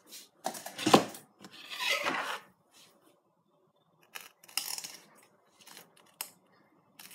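Metal knife and fork knocking and scraping against a plastic plate while cutting into beans on toast, with a sharp knock about a second in.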